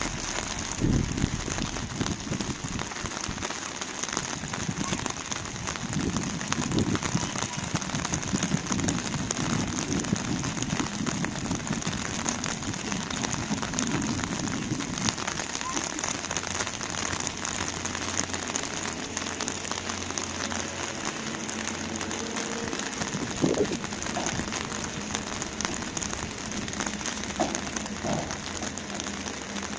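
Heavy rain falling steadily, with a dense patter of individual drops.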